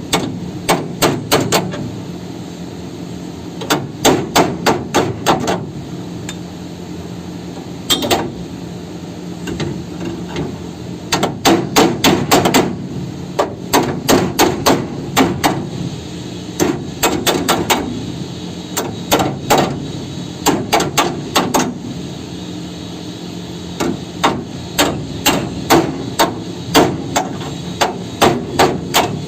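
Hammer blows on a vehicle's chassis frame during repair. The blows come in quick bursts of about five strikes, with short pauses between bursts, over a steady low hum.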